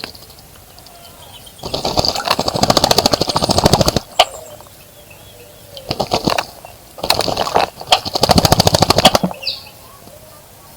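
Bird bathing in a bird bath, beating its wings in the water in three bouts of rapid fluttering splashes, the first and last each about two seconds long.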